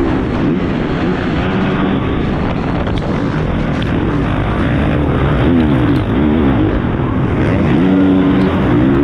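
Four-stroke 450 motocross bike engine revving hard and rising and falling in pitch as the rider works the throttle through the gears, heard from a camera mounted on the bike.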